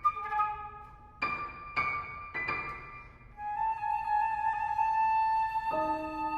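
Flute and piano playing contemporary classical music: a few struck piano notes ring and fade, then from about halfway the flute holds one long note while lower piano notes come in near the end.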